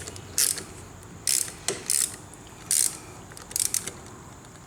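Hand ratchet clicking in short back-strokes, about one burst a second, as a Torx bit backs out the screws of a motorcycle's handlebar switch housing.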